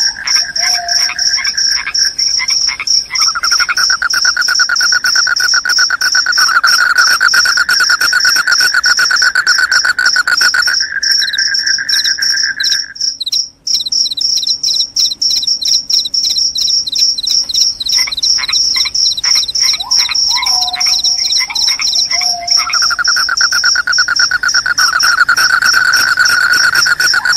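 Crickets chirping in a loud, rapid, continuous high trill. A second, lower pulsing chorus runs beneath it, stops about eleven seconds in and returns near the end, and a few short sliding calls come at the start and around two-thirds of the way through.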